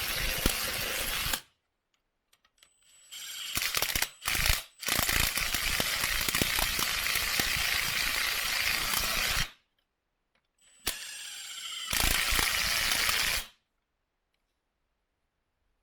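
Socket tools working engine-mount bolts: three stretches of fast, dense mechanical clicking, each starting and stopping abruptly.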